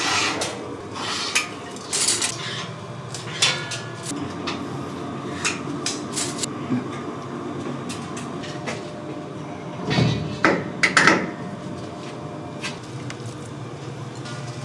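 Kitchen clatter: metal utensils, pans and dishes knocking and clinking at irregular intervals over a steady kitchen hum, with a burst of louder strikes about two-thirds of the way through.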